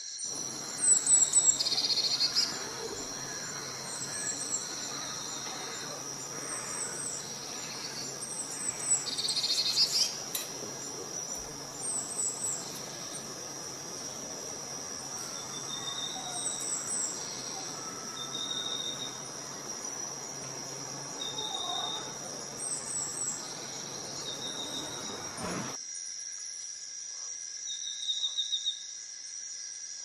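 Small birds chirping in short repeated calls over a steady high-pitched ringing drone. A background hiss stops suddenly about 26 seconds in.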